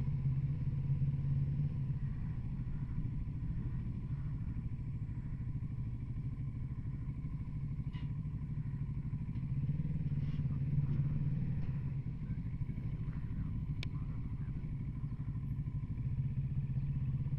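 Kawasaki Z650RS parallel-twin engine running steadily at low revs while riding, getting a little louder about ten seconds in and again near the end.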